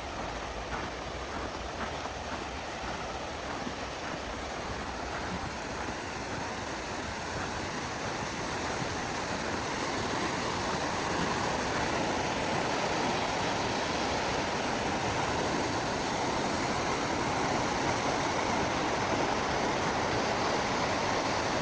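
Steady rushing of flowing stream water, growing a little louder about halfway through.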